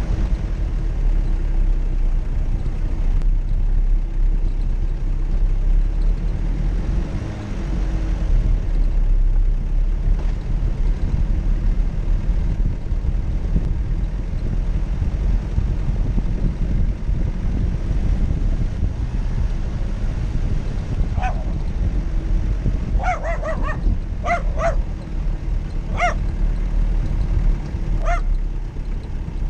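Steady low rumble of an off-road vehicle's engine. About two-thirds of the way in, a dog starts barking in short, high barks, around eight of them over the last several seconds.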